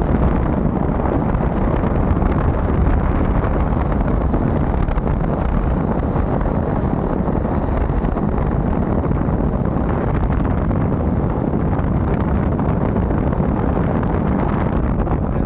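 Steady wind noise buffeting the microphone on a moving bike, with a low rumble of the ride underneath.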